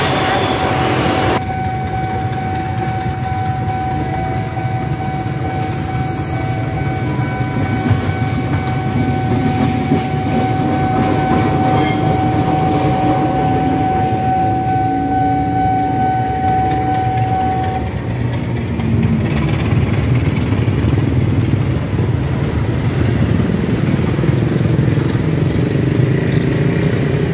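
Diesel-hauled train running past a level crossing with a steady low rumble. A steady high whine sounds over it and stops about two-thirds of the way through.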